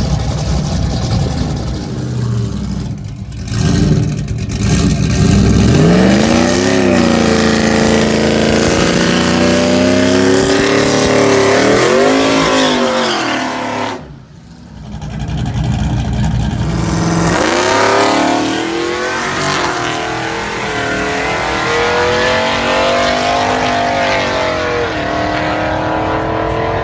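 Drag-racing engines running hard, their pitch climbing and falling back several times as they rev and pull. The sound drops out briefly about fourteen seconds in, then engine noise picks up again.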